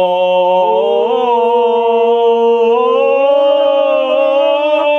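Several men's voices holding one long sung note together, a steady chant-like drone that shifts slightly up in pitch about a second in and again near the three-second mark.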